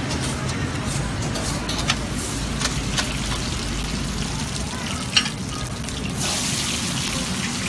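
Chapli kababs frying in a pool of hot oil on a large flat steel tawa: a steady sizzle, with metal spatulas clicking against the griddle twice. The sizzle grows brighter about six seconds in.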